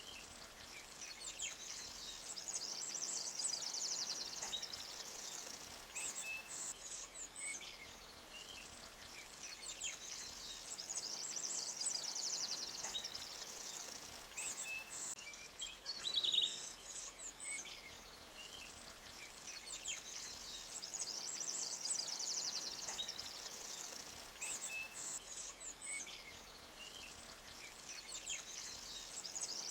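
Forest birdsong: a high, fast trill that swells and fades every several seconds, with scattered short chirps between and one louder call about halfway through.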